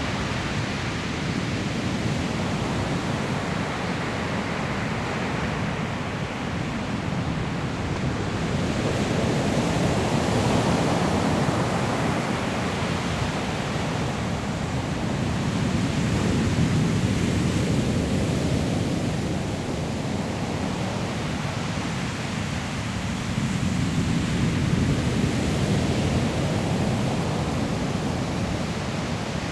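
Sea waves breaking and washing on a pebble shore: a steady rush of surf that swells three times as bigger waves come in.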